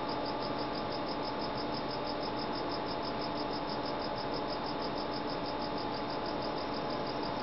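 Crickets chirping steadily, a fast even trill of about five high chirps a second, over a low steady hum.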